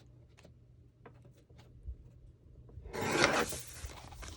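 Sheets of craft paper being handled with a few light taps. About three seconds in comes one short, loud rasping swipe of paper, lasting about half a second.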